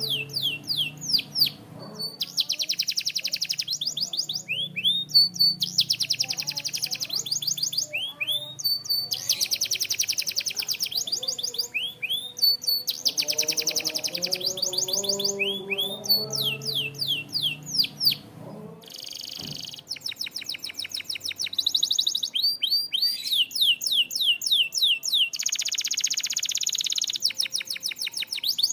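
Domestic canary singing: fast rolling trills of a second or two each, alternating with strings of quick down-slurred whistled notes, phrase after phrase with only brief pauses.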